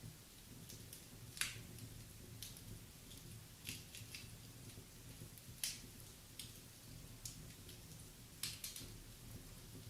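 Wood fire in a fireplace crackling, with irregular sharp pops and snaps, a few louder than the rest.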